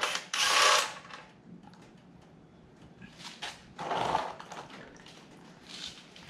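Work noises while getting at an engine's oil pan drain plug: a loud scraping rustle just after the start, then a few short, quieter knocks and clatters of tools and parts being handled.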